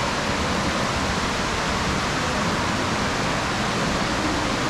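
A steady, even rushing noise with no breaks or changes in level.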